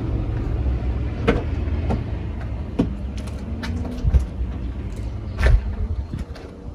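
Alfa Romeo 4C's 1.75-litre turbocharged four-cylinder running through its sport exhaust just after start-up: a deep, uneven rumble that eases toward the end. A few sharp clicks sound over it.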